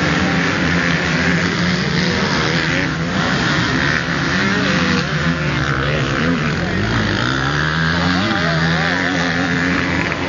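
Several motocross bike engines revving up and down as they ride the track, their pitches rising and falling over one another, with a rising rev from one bike about seven seconds in.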